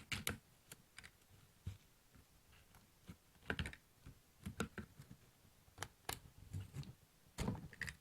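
Small plastic clicks and knocks, in a few irregular clusters, of hands fiddling with the RC buggy's battery compartment and its clips.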